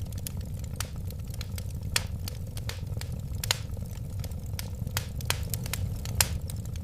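Wood fire burning with a steady low rumble and irregular sharp crackles and pops, a few louder than the rest.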